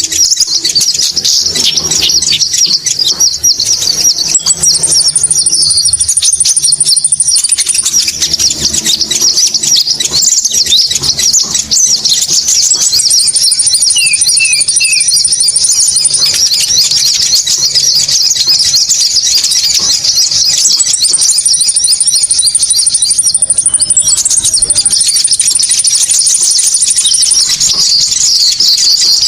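A lure recording of konin bird calls: loud, dense chattering calls overlapping without a break. A higher, even trill comes in four times, for two to three seconds each.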